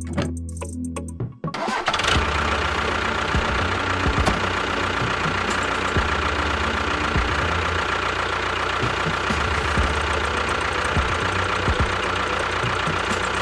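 Music stops about a second and a half in, and a steady, dense mechanical running noise takes over, like a small motor or engine running.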